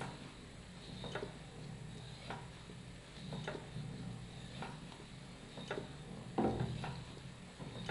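Sharp clicks repeating about once a second over a low steady hum, with a louder knock about six and a half seconds in.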